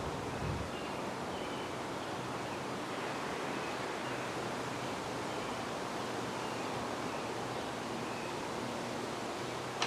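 Wind blowing steadily through trees, a continuous rushing hiss, with a low buffet of wind on the microphone about half a second in and a short click at the very end.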